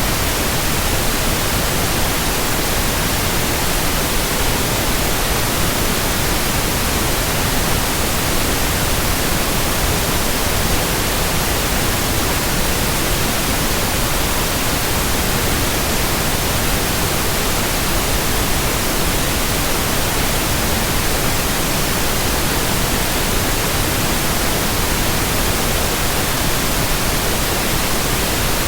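Steady, unchanging white-noise hiss spread evenly from low to high pitch, with no rhythm, tones or separate events.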